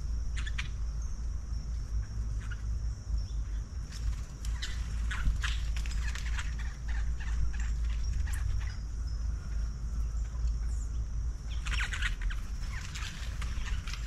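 Birds chirping in short, scattered calls, busiest about a third of the way in and again near the end, over a steady high-pitched hum and a low rumble.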